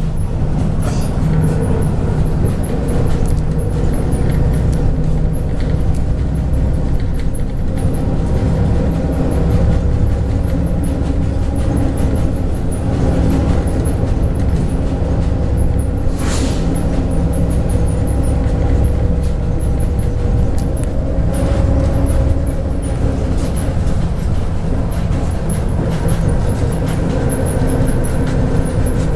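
Inside a MAZ 103.562 city-type bus on the move: steady engine and road rumble, with a brief hiss about halfway through.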